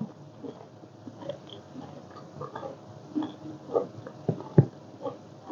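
Close-up chewing and wet mouth sounds of someone eating a spicy Thai seafood salad, with scattered small smacks and two louder sharp clicks a little after four seconds in.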